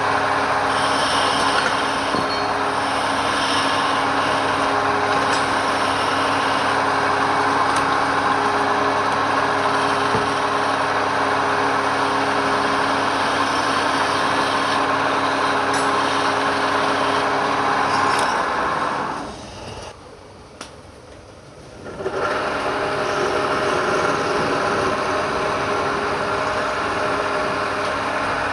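Woodturning lathe running steadily with a hum of several fixed tones under a hissing noise. About two-thirds of the way through the sound falls away for about three seconds, then comes back abruptly.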